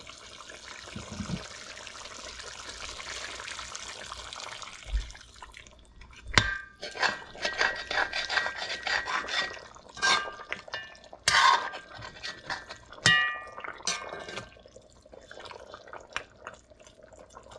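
Water pouring into a pot of chicken curry for about five seconds, then a metal utensil clinking against the pot many times, with short ringing tones.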